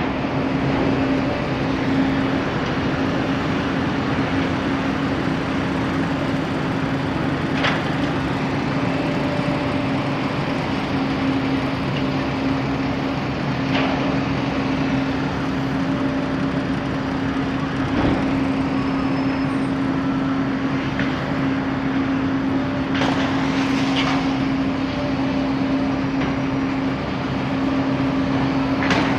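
Steady hum and rumble of bus-station traffic with engines idling, plus a few short sharp cracks spread through it.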